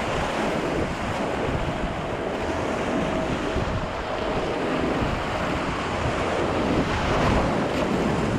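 Rushing whitewater on a kayak run, a steady roar of moving water with wind buffeting the microphone.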